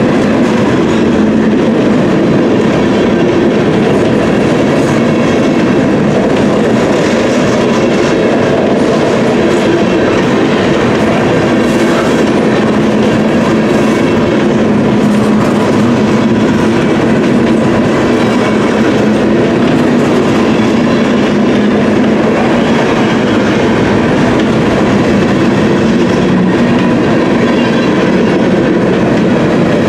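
Covered hopper cars of a Union Pacific grain train rolling past close by, their steel wheels running on the rails in a loud, steady rumble.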